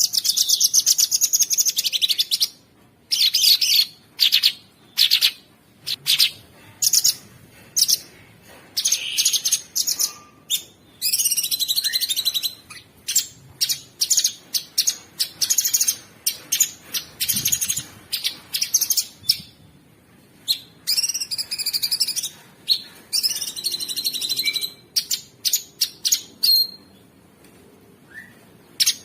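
Cucak sungkok songbird singing a rough, busy song: rapid trilling phrases repeated one after another with short pauses between.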